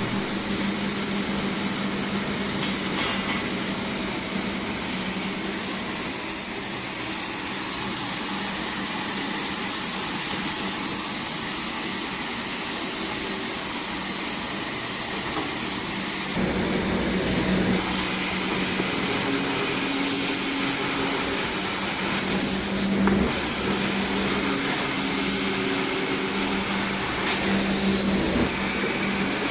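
CNC solid steel bar cutting machine with automatic stock feed, running with a steady mechanical noise and hum. It grows louder and heavier three times in the second half.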